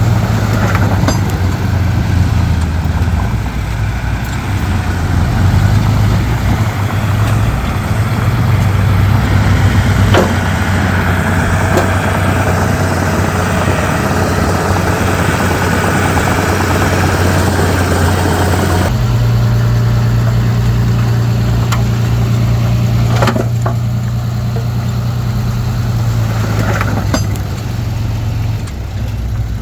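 Komatsu D31P bulldozer's diesel engine running steadily, with a few sharp metallic knocks. The engine note changes abruptly about two-thirds of the way through.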